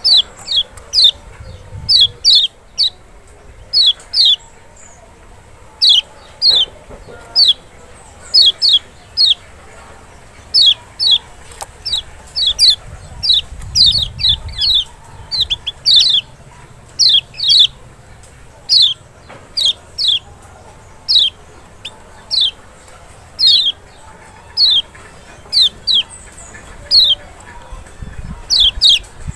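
Kecial Lombok (lemon-bellied white-eye, Zosterops chloris maxi) calling: short, sharp high notes that sweep down in pitch, often in quick pairs, repeated about once or twice a second.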